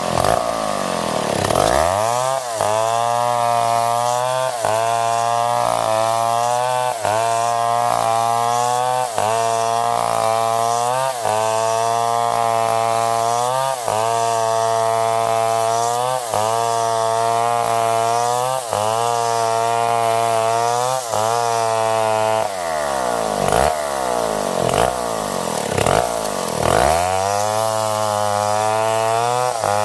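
Stihl 070 two-stroke chainsaw running at high revs, cutting wood, its pitch dipping briefly about every two seconds. Twice near the end the engine falls to a low pitch and climbs back up.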